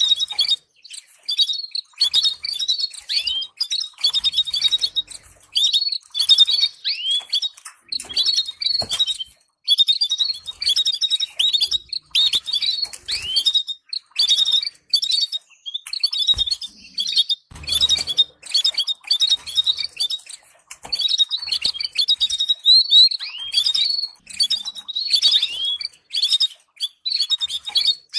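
Domestic canary singing: a continuous run of rapid, high chirps and short trills with quick downward-sweeping notes, in phrases broken by brief pauses.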